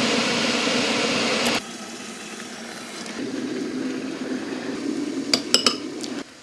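A steady rushing noise that cuts off abruptly about a second and a half in, followed by a quieter stretch and then a few light, ringing clinks of dishware near the end.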